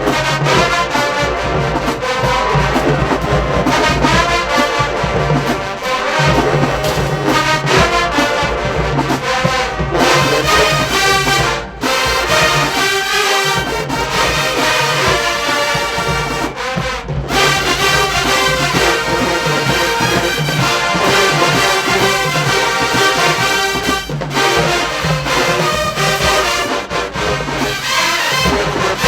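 A full HBCU-style marching band playing, with trombones and trumpets carrying the tune over a steady low drum beat.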